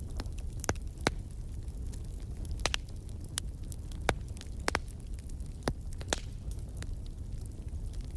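Wood fire crackling in a fireplace: a low, steady rumble of burning with irregular sharp pops and snaps, a few of them louder than the rest.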